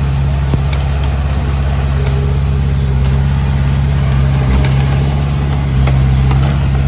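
Heavy diesel engine running steadily at an even pitch, with a few faint clicks now and then.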